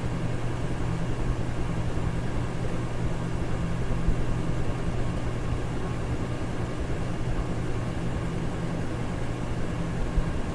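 Electric fan running steadily: an even rush of air over a low, constant motor hum, played as white noise for sleep.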